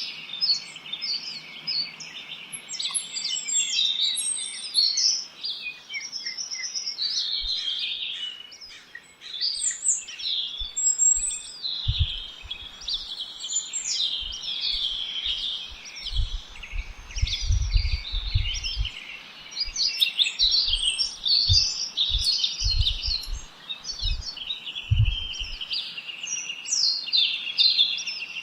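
Several songbirds chirping and singing at once in a dense, overlapping chorus of short high calls and trills. Low bumps come and go through the middle stretch.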